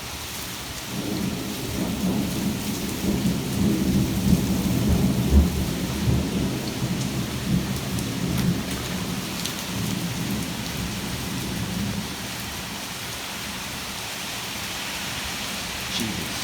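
Rolling thunder from a bright lightning flash, rumbling in about a second in, loudest around five seconds and fading away over the next several seconds. Steady rain runs throughout.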